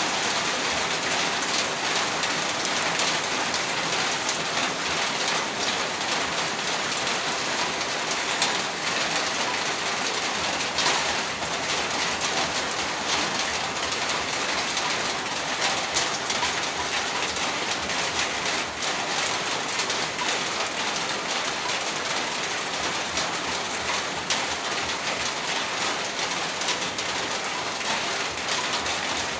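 Heavy rain falling steadily, a dense hiss dotted with drops hitting a surface.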